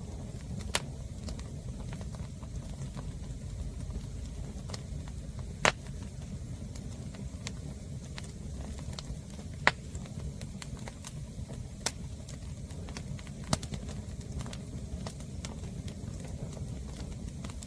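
Green firewood burning, giving off sharp pops every few seconds over a steady low rumble.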